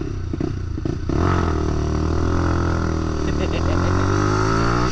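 Lexmoto LXR 125's single-cylinder 125cc engine ticking over, then pulling away about a second in and revving up steadily in pitch, with the revs dropping at a gear change near the end.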